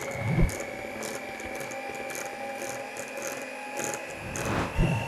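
Electric mixer running with a steady high motor whine as it whips cream; the whine rises slightly in pitch near the end and then stops. Two low thumps, one just after the start and one near the end.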